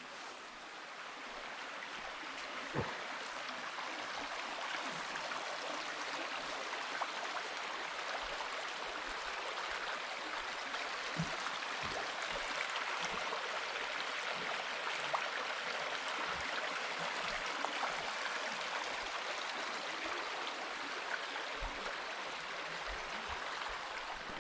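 Flowing river water: a steady rush of current over stones, with a few faint low thuds.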